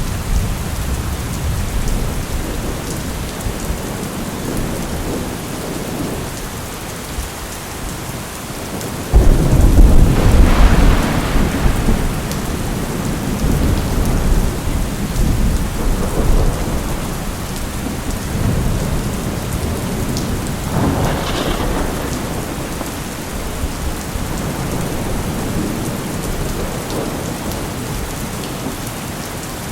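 Steady heavy rain with rolling thunder. About nine seconds in a loud thunderclap breaks in suddenly and rumbles on for several seconds, and a second, softer roll of thunder follows later.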